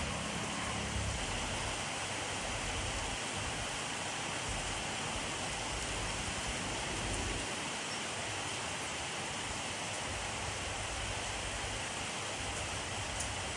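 Steady rainfall, an even hiss of rain falling on surfaces with faint scattered drop ticks and a low rumble near the start.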